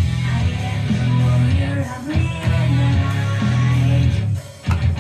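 A rock song with guitar playing, which drops out briefly about four and a half seconds in.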